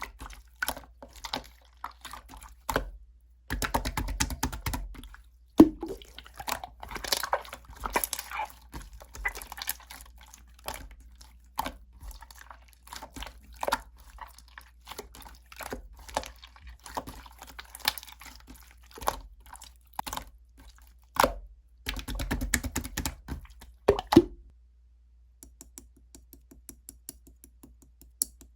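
Clear slime being squeezed, pressed and stretched by hand, with wet squelches, crackling clicks and small air-bubble pops. Near the end it turns to a run of faint, quick little clicks.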